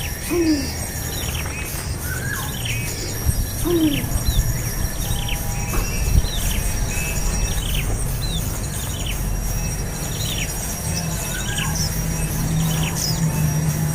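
Birds chirping outdoors: a run of short, falling chirps repeating about once a second, with a steady high insect-like whine and a low rumble underneath.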